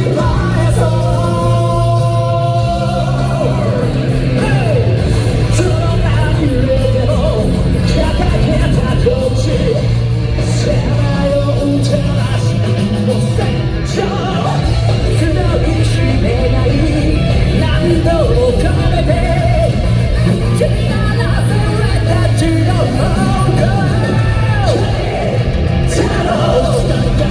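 Live rock band playing with sung lead vocals over a loud, steady band backing.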